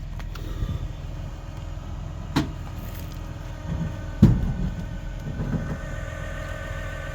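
Tow truck's engine running with a steady low rumble. Two sharp metallic clanks come about two and four seconds in, the second louder. A steady whine joins near the end.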